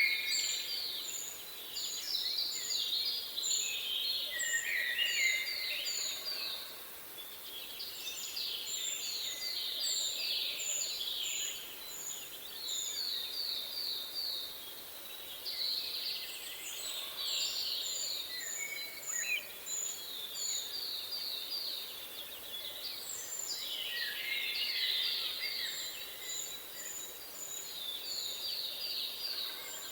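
Several songbirds singing at once. Runs of short, very high notes alternate with quick trilled phrases that repeat every few seconds.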